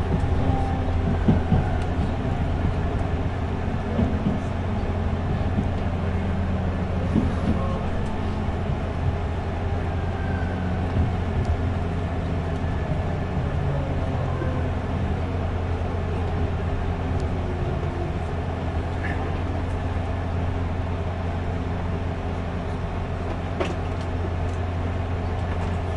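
Running noise heard inside the cabin of a JR 383 series limited express train: a steady low hum, with a faint whine that slowly falls in pitch.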